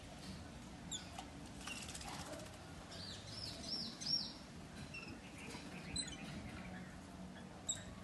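Small birds chirping: a quick run of four high, arching chirps about three seconds in, and single short calls near the start, around six seconds and near the end.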